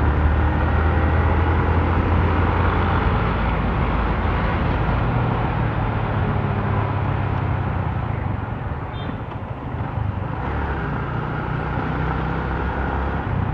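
Motorcycle engine running under way with road noise; it eases off about eight seconds in, then picks up again.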